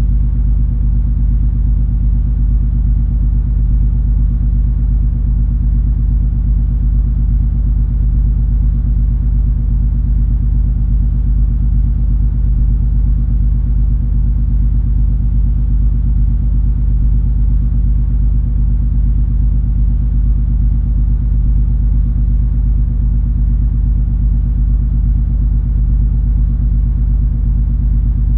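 Deep, unchanging drone of the cruise ferry MS Color Fantasy under way: engine and hull rumble with a few steady hum tones.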